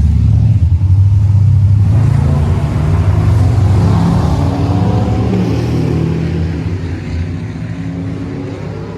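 Loud car engine running close by with a throbbing low rumble; its pitch shifts about two seconds in, and it grows steadily fainter over the last few seconds.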